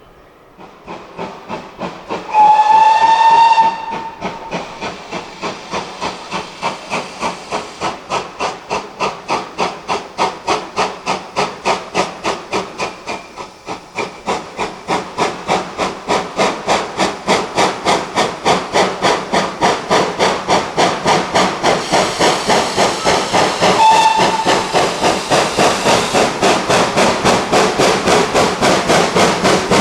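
GWR Manor class 4-6-0 steam locomotive No.7802 Bradley Manor pulling away: a long whistle blast a couple of seconds in, then steady exhaust beats that quicken and grow louder as it gets under way. A second short whistle comes near the end.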